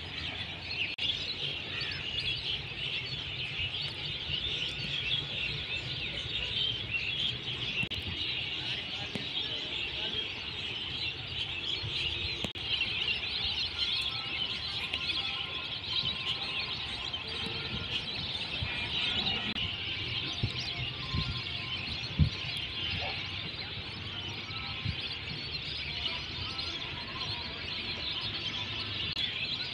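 A large flock of waterbirds calling all at once, a continuous dense chatter of high calls, with one brief knock about two-thirds of the way through.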